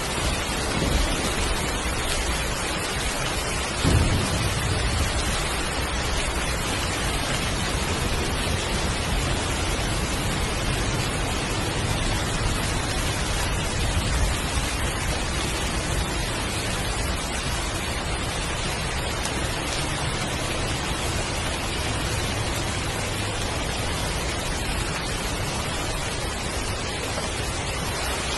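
Heavy rain falling steadily, with a sudden crack of thunder about four seconds in and low rumbling afterwards.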